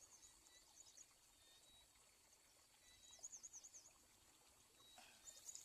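Quiet outdoor background with faint, high-pitched chirping calls from a small animal. The calls come in two quick runs, one near the start and one about three seconds in, each lasting about a second.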